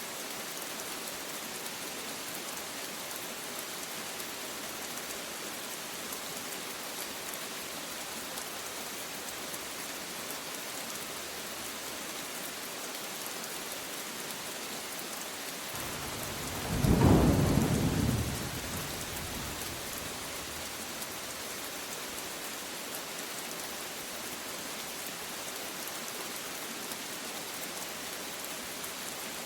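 Steady rain falling with an even hiss. About halfway through, a single clap of thunder rumbles for two or three seconds and fades.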